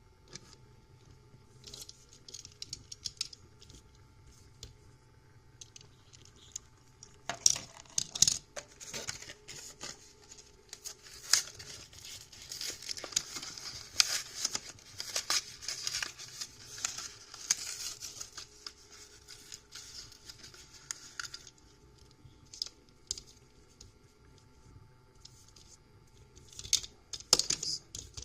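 Diecast toy car blister-card packaging being torn and crinkled open by hand: a few small clicks at first, then a long stretch of tearing and crackling plastic and card from about a quarter of the way in to about three quarters, then scattered clicks and a few sharp snaps near the end.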